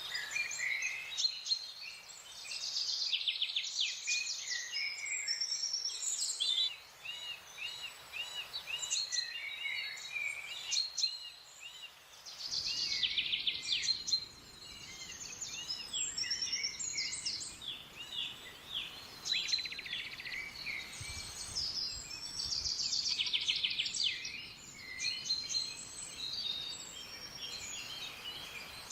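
Several wild birds singing at once: overlapping high chirps, trills and rapid note runs, with one bird repeating a short arched note about twice a second in the middle. A faint low background hum comes in about halfway through.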